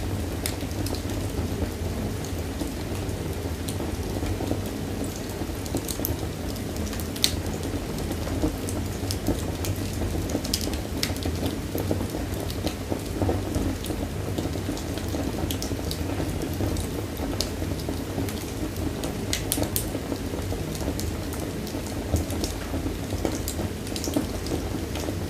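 Wood fire burning in a fireplace: a steady low rush of flame with scattered sharp crackles and pops at irregular moments.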